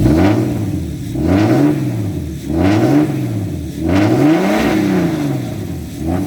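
Turbocharged BMW M50 straight-six in a straight-piped E36, warmed up and revved four times from idle, each rev rising and dropping back, the last held a little longer.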